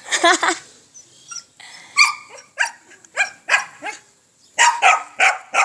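Dog barking repeatedly in short, sharp barks: a burst at the start, then single barks about twice a second, and a quick flurry near the end, directed at a hen.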